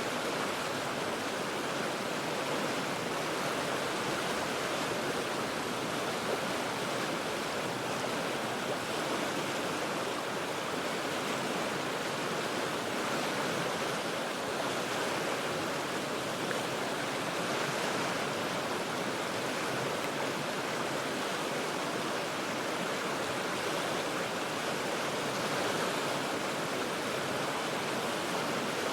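The Cheat River's rushing water, heard from about forty feet above: a steady, even rush with no breaks.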